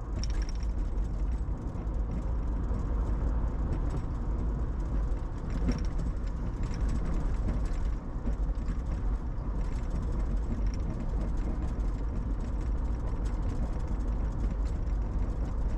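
Road noise inside a moving car: the tyres rumble steadily over a rough, broken road surface with the engine running under it, and a few light knocks from the bumps.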